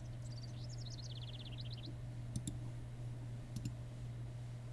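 Sharp paired clicks, twice about a second apart, over a steady low hum, with a quick trill of high chirps near the start.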